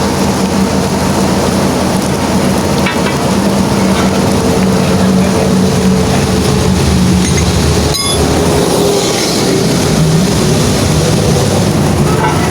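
A heavy diesel truck engine idling steadily, with rain hiss over it. There is a short break about eight seconds in, and after it the engine note is slightly lower.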